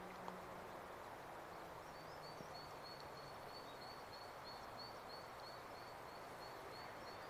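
Faint outdoor background hiss with a small bird repeating a short, high chirp about three times a second, starting about two seconds in.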